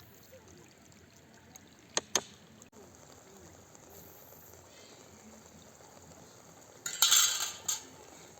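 Cooking sounds: two quick clinks of a utensil about two seconds in, then a short, louder burst of liquid splashing near the end.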